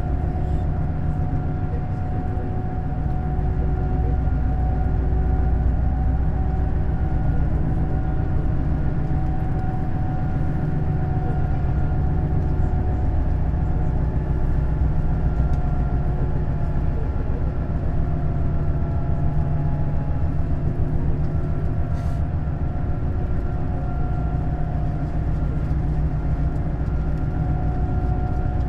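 Neoplan Skyliner N 1122/3C double-decker coach driving at a steady speed, with its engine and drivetrain giving a constant low drone and a steady whine. There is a single sharp click about three quarters of the way through.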